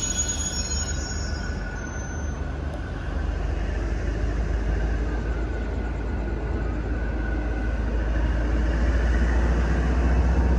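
State Railway of Thailand passenger train rolling out over station tracks: a steady low rumble of coaches and wheels, with a thin wheel squeal in the first couple of seconds, growing louder near the end.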